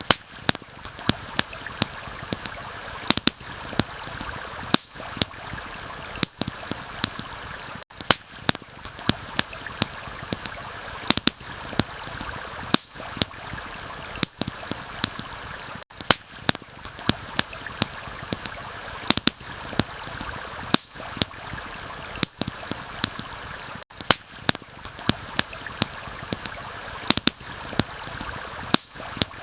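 Campfire crackling with irregular sharp pops over a steady rush of running water. The whole mix dips briefly about every eight seconds.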